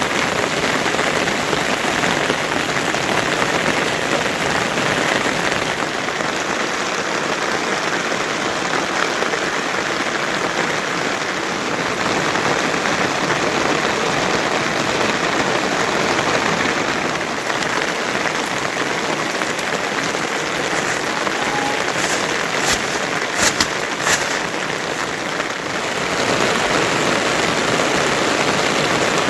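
Heavy monsoon rain falling steadily, a dense even hiss. A few sharp clicks come about three-quarters of the way through.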